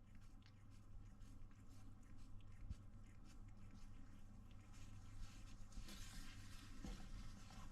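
Near silence: faint rustling and light scratching over a low hum, growing a little louder in the last couple of seconds.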